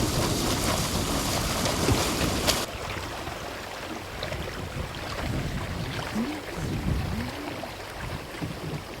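Wind buffeting the microphone and water rushing aboard a sailing yacht under way. The loud rush cuts off suddenly about two and a half seconds in, leaving a quieter wind-and-water noise.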